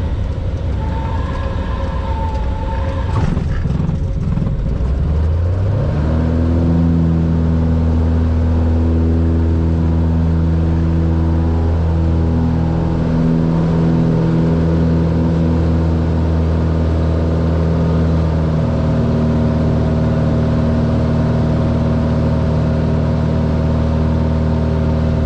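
Cessna 182R's six-cylinder Lycoming O-540 engine and propeller running. About five seconds in, the engine pitch rises over a second, then holds steady.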